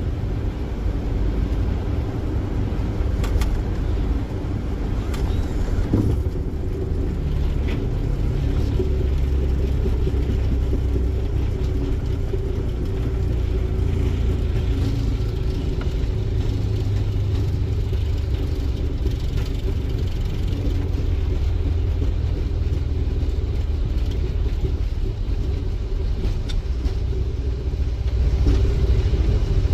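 Boeing 737 cockpit during the landing rollout just after touchdown: a steady low rumble of engines, wheels and airflow, with a few sharp knocks in the first six seconds. The rumble swells from about eight seconds in and eases again past the middle.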